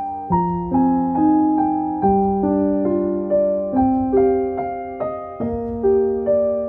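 Soft background piano music: single notes struck one after another, about two or three a second, each ringing and fading.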